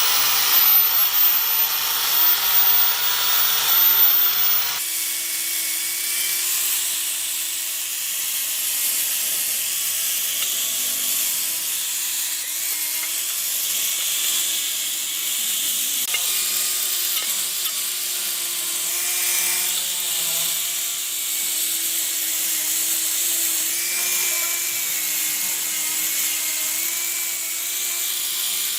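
Steady abrasive hiss of a power tool working on metal parts, over a wavering motor tone. The sound changes abruptly about five seconds in.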